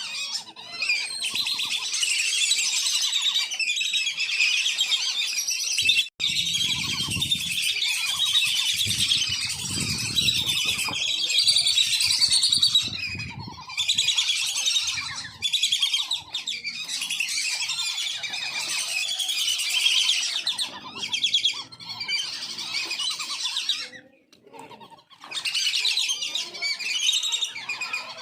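A flock of wandering whistling ducks calling continuously, many high, squealing whistles overlapping. Bursts of low rumble run underneath between about six and thirteen seconds in.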